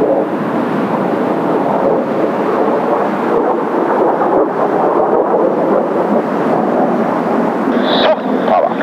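Steady rushing roar of Kawasaki T-4 jet engines from Blue Impulse jets in flight, mixed with strong wind.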